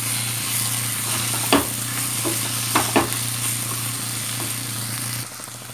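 Onion, green chilli and tomato masala sizzling as it fries in a nonstick pan, stirred with a wooden spatula. The spatula knocks sharply against the pan once about a second and a half in and twice around three seconds in. The sizzle drops suddenly just before the end.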